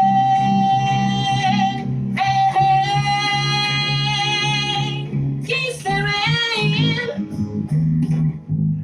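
A singer accompanying herself on guitar: three long held sung notes over steady guitar playing. The last note wavers, and the music drops away near the end.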